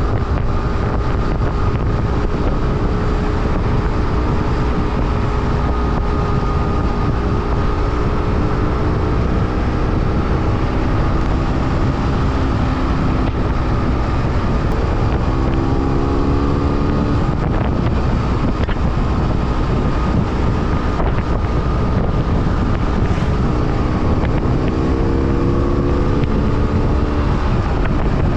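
BMW F800R's parallel-twin engine running on the move under heavy wind rush on the microphone; the engine pitch climbs twice, around the middle and near the end, as the bike accelerates.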